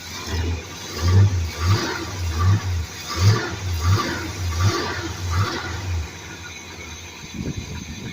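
Old vehicle engine running on its first start after two years of sitting, its low rumble surging unevenly about every half second, then dropping away to a quieter, rougher sound about six seconds in.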